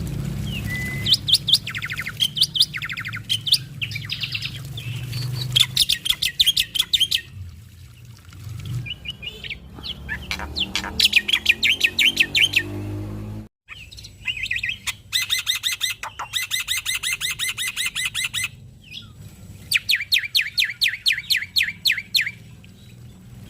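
Male black-winged myna (jalak putih) singing in repeated runs of rapid, evenly spaced chattering notes, each run a second or two long, with short pauses between.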